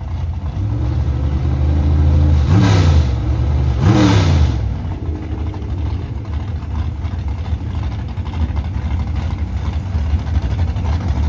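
Drag race car engines running loud at the strip, revved sharply twice a few seconds in, then settling to a steady lower rumble.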